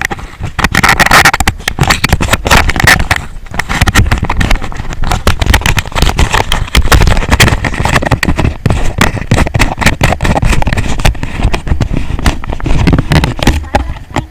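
Loud vehicle noise with a heavy low rumble and dense crackling buffets on the microphone.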